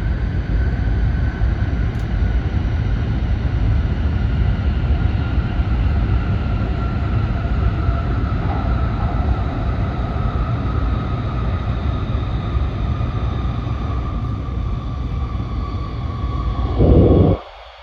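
Nishi-Kyushu Shinkansen N700S train running at speed, heard from inside the car: a heavy steady rumble with a faint whine slowly falling in pitch. Near the end comes a brief loud whoosh, and then the rumble drops off sharply.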